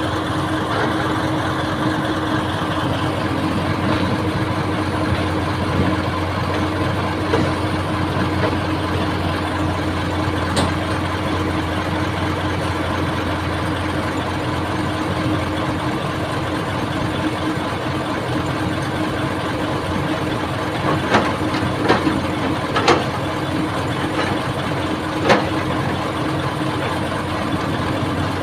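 Old excavator's diesel engine running steadily, with a few sharp knocks in the last third.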